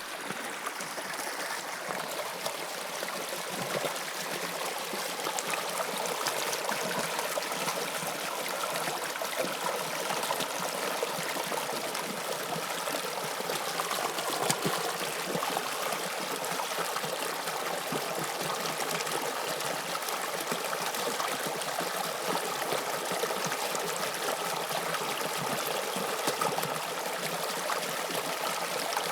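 Toronto subway Line 2 train running through the tunnel, a steady rushing noise of wheels on rails with a faint whine underneath. It starts abruptly.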